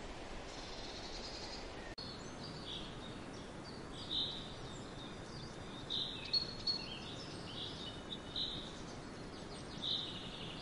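Steady outdoor ambient hiss with scattered short, high bird chirps.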